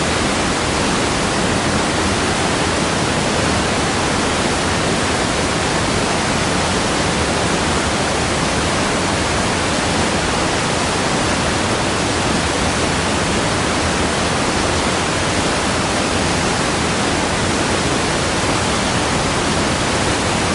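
Waterfall, a loud, steady rush of falling water with no change throughout.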